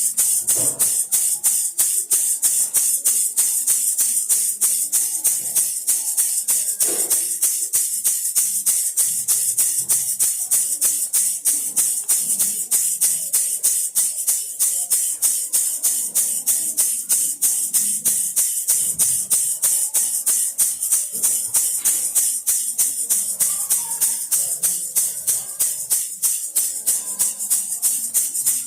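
Baby rattle shaken in a steady fast rhythm, several bright, high rattling shakes a second without a break.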